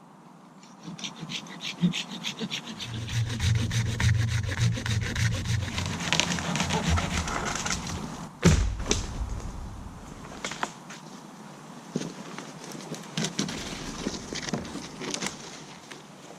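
Hand saw cutting through dead standing wood in quick, even strokes, followed by a single loud crack about eight and a half seconds in, then lighter scrapes and knocks as the wood is handled.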